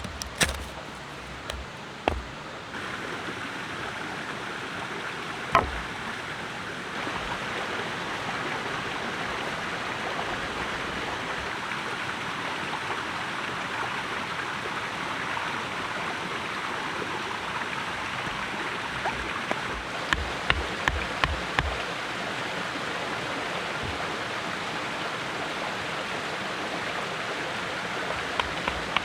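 A steady rushing hiss, like running water, that grows louder about seven seconds in. A few sharp clicks come early, and a quick run of clicks and knocks comes around twenty seconds in.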